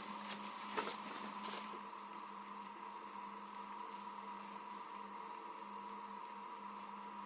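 Steady drone of jungle insects, several constant pitches from a low hum to a high whine, with a few faint clicks in the first two seconds.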